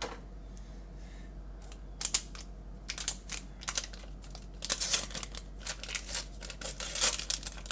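Paper wrapper of a stick of butter crinkling and tearing as it is peeled off, in a string of irregular sharp crackles that start about two seconds in.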